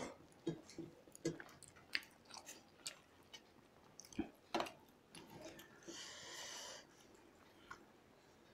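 Two people eating rice with their fingers: chewing and mouth noises, with scattered light clicks and taps of steel tableware. Just past the middle comes a brief hissing noise lasting about a second.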